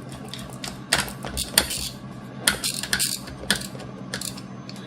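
Light clicks and clinks of small hard objects being handled on a work surface, about six separate taps over a few seconds, with a steady low hum underneath.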